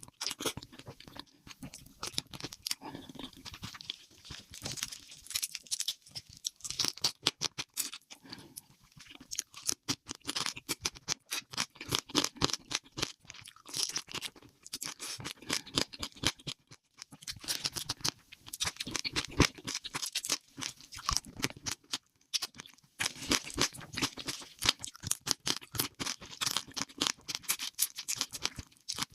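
Close-miked mukbang eating: crisp crunchy bites and chewing, a rapid irregular run of crunches broken by a couple of brief pauses.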